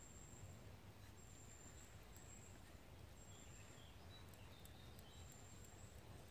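Quiet woodland ambience: a small bird repeating a thin, very high note, each held about half a second, at uneven gaps, with a few softer chirps between.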